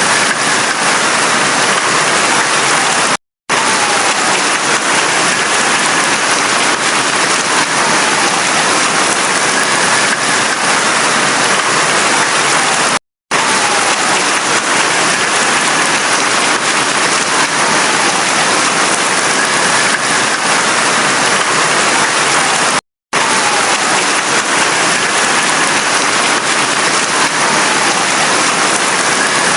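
Heavy, steady rain. It drops out to silence for a split second three times, about ten seconds apart.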